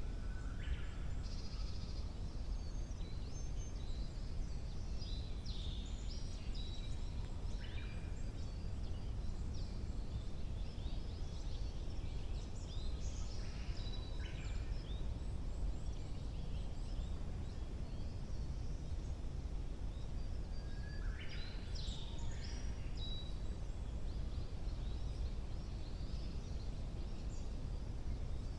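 Several woodland songbirds singing in short, scattered chirps and whistled phrases over a steady low background rumble.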